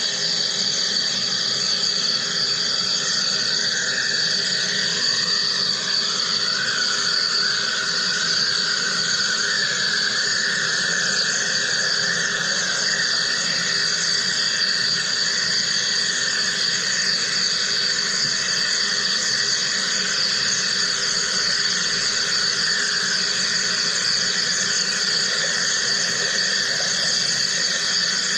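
Wire electrical discharge machine running steadily, a continuous high-pitched buzz and hiss as the wire cuts.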